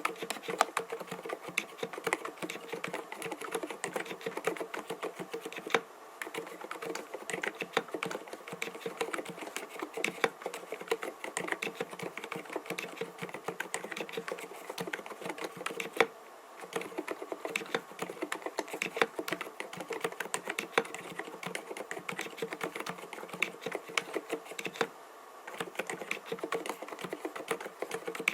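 Steady, fast typing on an mStone Groove T 87A mechanical keyboard fitted with 45 g silent Milky switches, with short pauses about six, sixteen and twenty-five seconds in.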